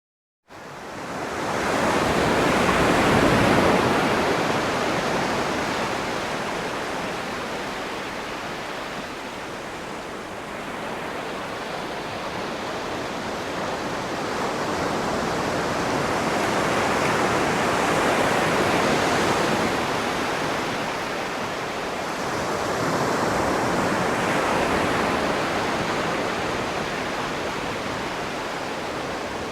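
Sea waves breaking and washing in, a steady rushing surf that swells and ebbs slowly, with louder surges about every six seconds.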